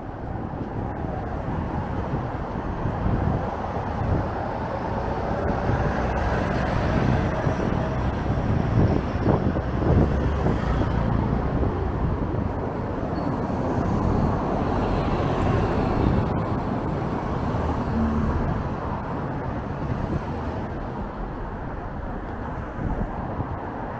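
Street traffic passing, mixed with wind rumbling on the microphone, swelling in the middle and easing off toward the end.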